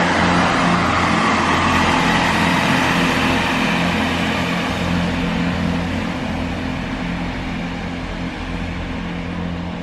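A vehicle engine runs steadily with a low hum, under a broad rushing noise that slowly fades.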